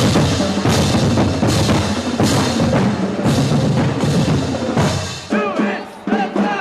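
Marching band drumline playing, with heavy bass-drum strokes about every three-quarters of a second. About five seconds in the drumming drops away and a few short, high, rising-and-falling whoops are heard.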